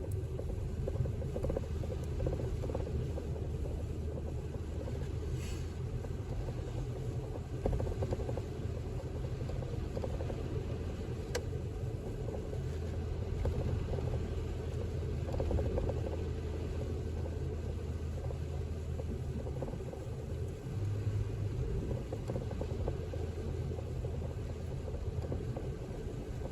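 Steady low rumble of a car driving, engine and tyre noise heard from inside the cabin, with a faint click about eleven seconds in.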